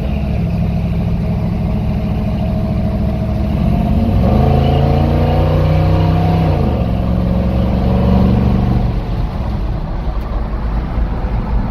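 Old Ford pickup's engine pulling the truck along: it speeds up about four seconds in, drops in pitch near seven seconds as it shifts, then eases off. The engine is being driven gently while still cold.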